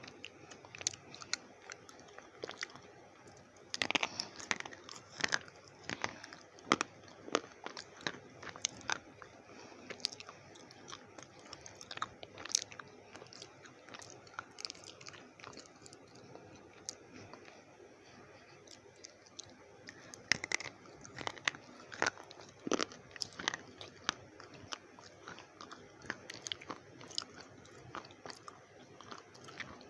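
Slate pencils being bitten and chewed: a run of sharp, crackly crunches, coming thickest in two flurries about four seconds in and about twenty seconds in.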